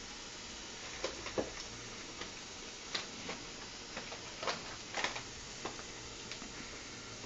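Scattered light clicks and taps of kitchen utensils and containers while sugar and water are measured out for a syrup, irregularly spaced, over a steady low hiss.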